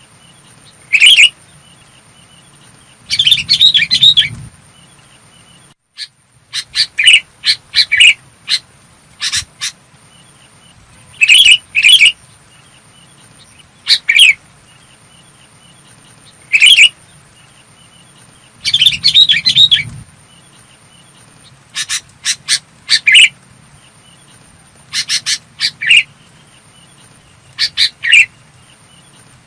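Sooty-headed bulbul singing in clear notes: short phrases repeated every two to three seconds, twice broken by a longer run of quick notes.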